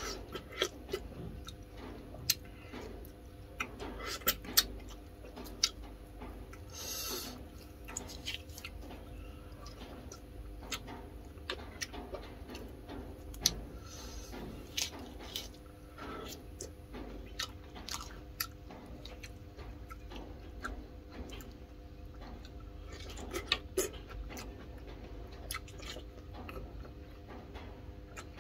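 Close-up eating sounds: a person chewing and biting boiled chicken, with many short wet smacks and clicks from the mouth and the meat being torn apart by hand. A steady faint hum runs underneath.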